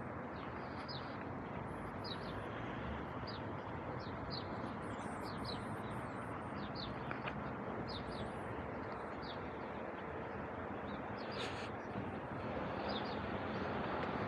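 Small birds chirping in short, high calls repeated every second or so, over a steady background of street noise.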